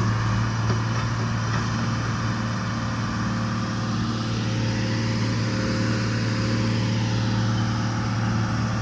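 Excavator's diesel engine running with a steady, even hum as the machine travels slowly in first gear.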